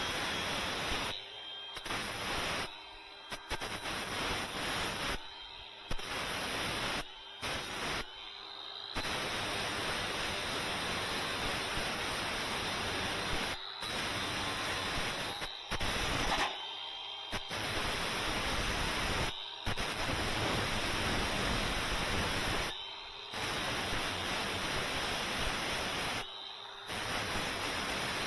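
Steady hiss of compressed air from a blasting gun cleaning rust off sheet metal, cut off sharply about eleven times as the trigger is let go and pulled again.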